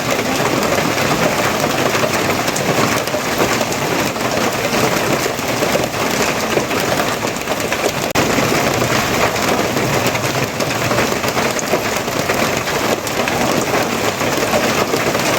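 Steady, loud rain falling on surfaces: an even, unbroken rushing patter with no let-up.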